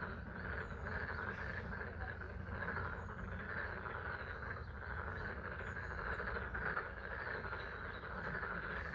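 Chorus of frogs calling steadily from a pond, a dense continuous trilling, over the patter of spring rain.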